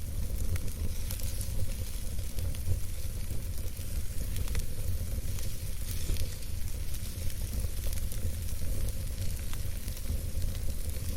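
Wood campfire burning steadily: a continuous hiss with scattered soft crackles and pops, over a steady low rumble.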